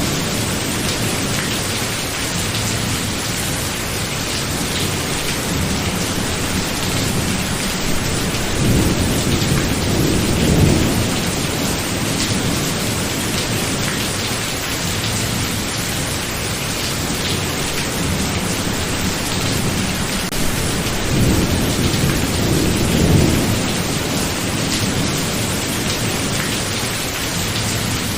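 Steady thunderstorm rain with rolling thunder: two low rumbles swell and fade, one about a third of the way in and another about three-quarters of the way through.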